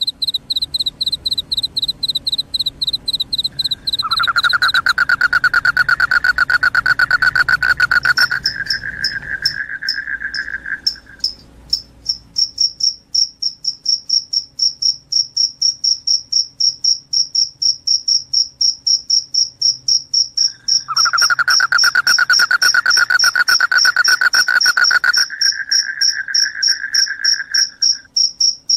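Crickets chirping in a steady, rapid train of high pulses. Twice a louder, lower trill joins in for about seven seconds and steps up in pitch just before it stops.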